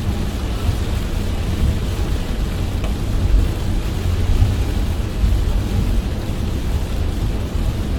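Heavy rain on a moving car, a steady hiss of rain over a deep, even rumble of tyres and road.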